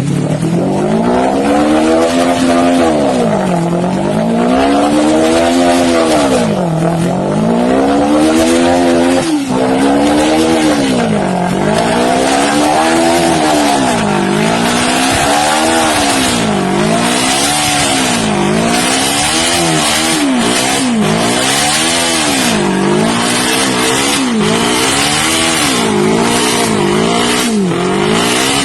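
Motorcycle engine revved up and down over and over, each rise and fall lasting about two seconds at first and getting quicker, about once a second, in the second half.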